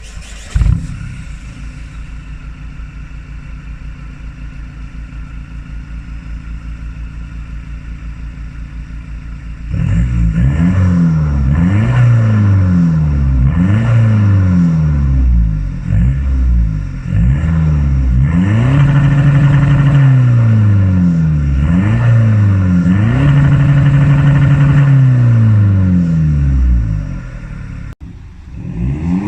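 Vauxhall Vectra 1.9 CDTi turbodiesel running through a straight-pipe exhaust: it idles steadily, then from about ten seconds in it is revved again and again. There are short blips and several longer held revs, and it drops back shortly before the end.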